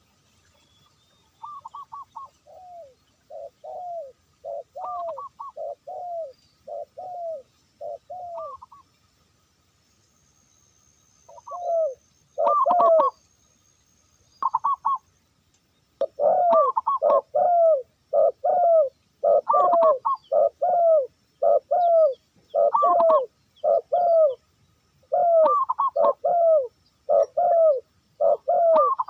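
Dove cooing in a long series of short repeated coos, each a higher note falling to a lower one. The coos pause twice in the first half, then come in a faster, steadier run.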